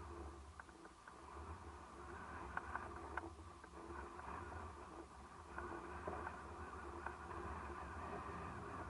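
Sea waves washing on the shore, with a low steady rumble of wind on the microphone and a few small clicks near the start.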